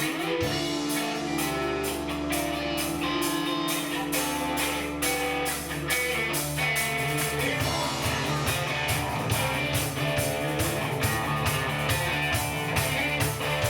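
Live band playing a rock song with electric guitar and drums, a steady beat running throughout.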